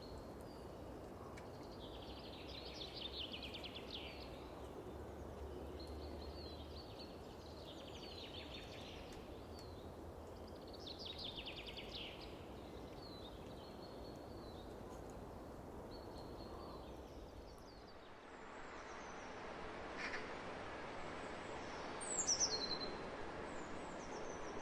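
A songbird sings short phrases of rapid high notes every few seconds over a low outdoor wind rumble. About three-quarters of the way in, the background turns to a brighter, airier hiss. Near the end a loud bird call sweeps down in pitch.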